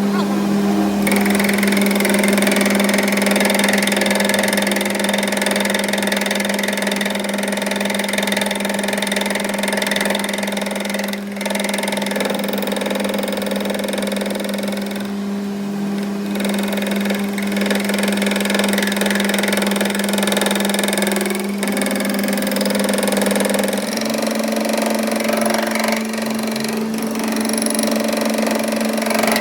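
A machine motor running steadily with a strong even hum, its pitch stepping up slightly about 24 seconds in.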